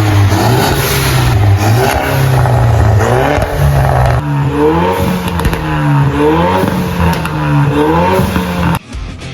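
Ford Mustang GT 5.0 V8 on a new stainless full-system exhaust with Y-pipe and valved dual tips, revved in the stationary car. It is held at raised revs at first, then blipped up and down about once a second, and cuts off abruptly near the end.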